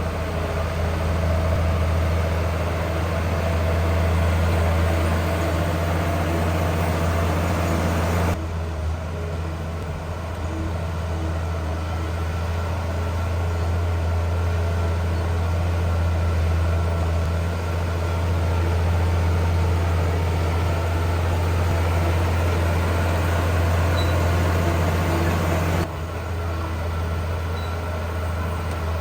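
Heavy diesel engine of earthmoving machinery running steadily with a low drone. The sound shifts abruptly about a third of the way in and again near the end.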